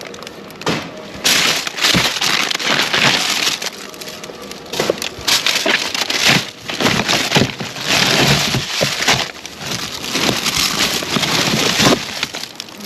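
Plastic bags and food packaging rustling and crinkling as items are rummaged through and handled in a dumpster, with irregular crackles and crunches throughout.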